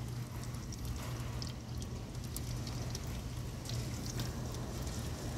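Steady rain from a hurricane's outer rain band, with many scattered drops tapping close by over an even hiss. A low steady hum runs underneath.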